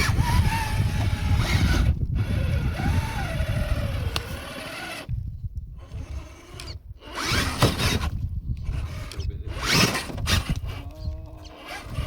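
Electric motor and gear drivetrain of a 1/7-scale RC trail truck whirring in stop-start bursts as the throttle is worked, with a whine that shifts in pitch and several short pauses, over a steady low rumble.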